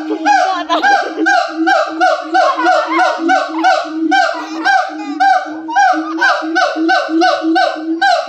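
A group of monkeys calling back and forth in a lively chorus: rapid repeated honking calls, about three a second, each note dropping in pitch, with several voices overlapping.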